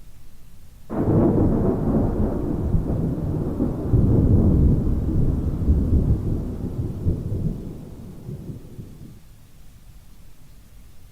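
A thunderclap that breaks suddenly about a second in and rolls on as a deep rumble, loudest a few seconds later, dying away after about eight seconds. Faint steady rain hiss underneath.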